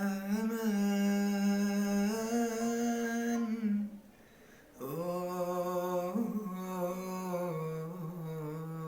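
A man's voice singing a wordless, unaccompanied melody in two long held phrases, with a short break about four seconds in.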